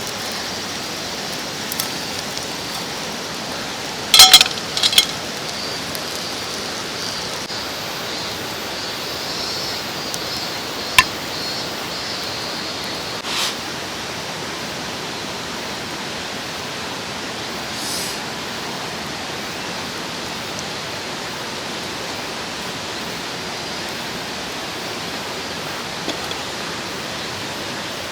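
Steady rush of a mountain stream. A quick cluster of loud, sharp knocks about four seconds in and a single sharp click about eleven seconds in cut through it.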